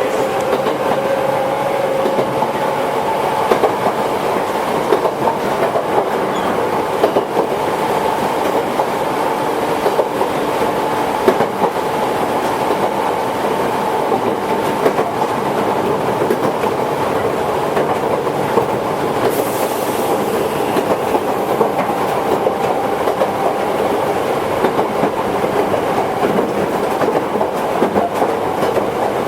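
Toyohashi Railway 1800-series electric train, an ex-Tokyu car, running along the line. A steady rolling noise of wheels on rail comes with frequent clicks from the track and a faint steady whine.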